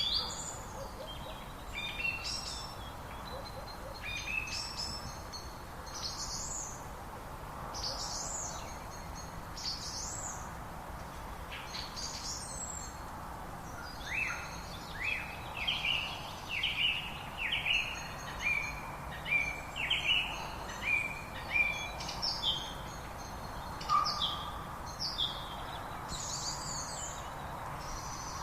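Several birds singing and calling: short high chirps throughout and, from about halfway, a run of quick falling notes repeated roughly twice a second, over a steady background hiss.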